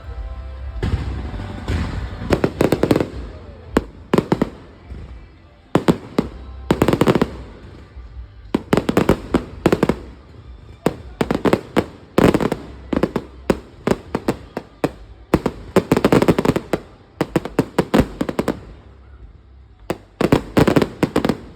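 Aerial fireworks going off in quick volleys: clusters of sharp bangs and crackling every second or two, over a continuous low rumble.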